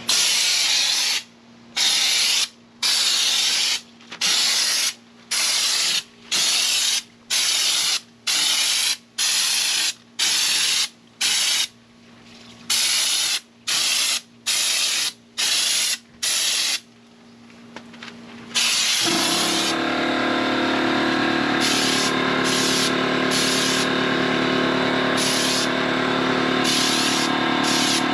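Air-powered spray gun shooting Raptor textured bed liner in short bursts of hiss, roughly one a second. About two-thirds of the way in, the hiss turns continuous and a steady machine hum joins it.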